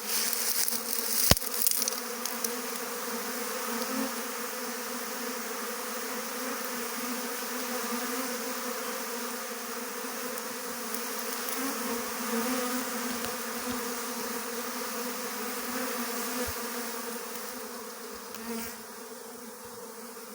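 Honeybee swarm clustering, a dense steady buzzing hum, with a single sharp click about a second in.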